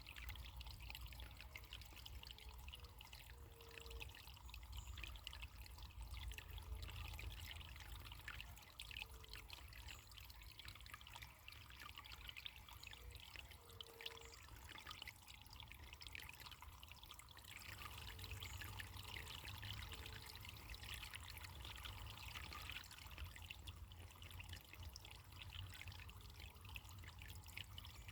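Faint, steady trickle of running water, like a small stream, with a low rumble underneath and a few brief low notes here and there.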